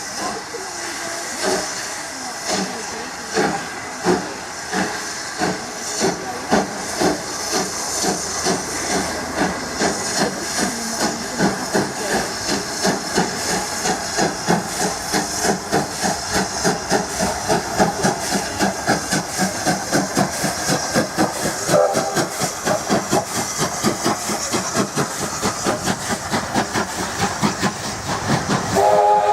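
Steam locomotive working under steam: a steady hiss of steam with rhythmic exhaust beats that gradually quicken as it gets going. A short whistle sounds near the end.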